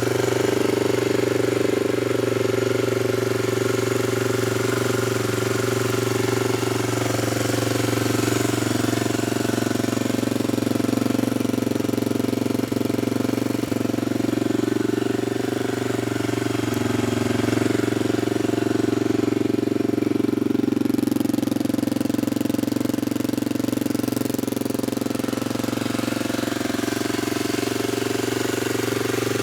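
1983 Honda XL250R's single-cylinder four-stroke engine idling steadily while warming up after a cold start, its speed wavering slightly now and then.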